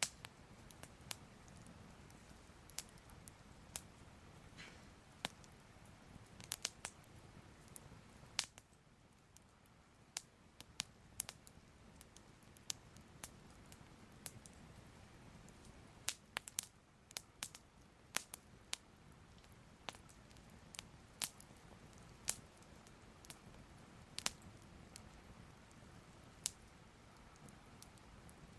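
Soft crackling fire: irregular sharp pops and crackles, a few to several every second, over a faint low rumble.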